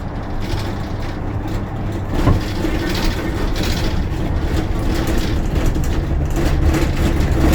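Bus engine running, heard from inside the bus as a steady low drone. A single knock comes a little over two seconds in, and the engine note changes about halfway through.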